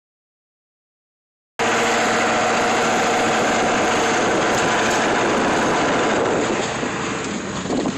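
Silence for about the first second and a half, then a straight-piped Ford F-350's 7.3 Powerstroke turbo-diesel V8 running loud and steady under load, tapering off near the end.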